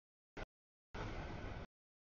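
CSX double-stack container train rolling through a grade crossing: an even rushing noise of wheels on rail, heard only in snatches that cut off to dead silence between them. There is a short snatch about a third of a second in and a longer one of under a second after the first second.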